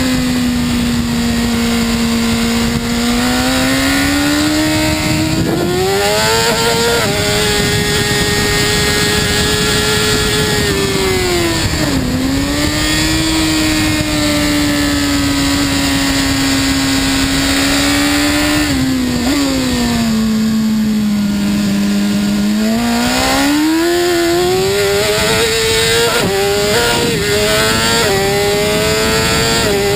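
BMW S 1000 RR's inline-four engine at speed on a race track. The engine note climbs with quick upshifts around 6 s and again around 26 s, and drops sharply on deceleration and downshifts near 12, 19 and 22 s.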